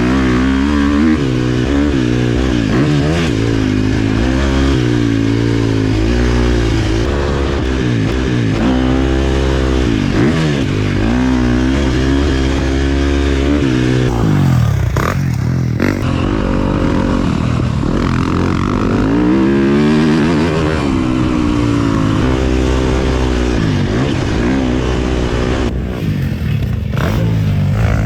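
A 2023 KTM 350 SX-F's 350 cc single-cylinder four-stroke engine being ridden hard, its pitch climbing and dropping over and over as the rider opens and closes the throttle and shifts gears.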